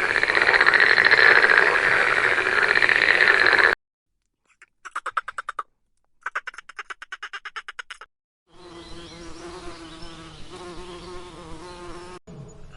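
A run of separate animal-call clips: a loud steady buzzing call that stops suddenly after almost four seconds, then two bursts of rapid pulsed trilling at about nine pulses a second, then a quieter steady droning call that cuts off near the end. The calls are insect- or frog-like.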